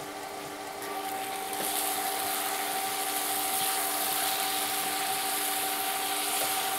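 Diced apples sizzling steadily in butter and sugar in a stainless saucepan as they cook down for compote, a little louder from about two seconds in. In the second half a wooden spoon stirs and scrapes them around the pan. A steady hum of several tones runs underneath.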